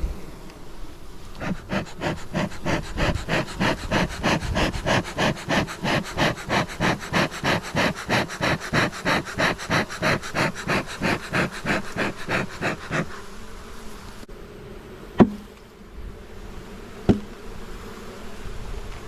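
Honeybees buzzing at an open hive. Over them comes a rapid, even whooshing of about three strokes a second that lasts roughly eleven seconds, then stops; two sharp knocks follow near the end.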